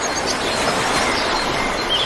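River water rushing steadily, with a few faint high bird chirps near the start.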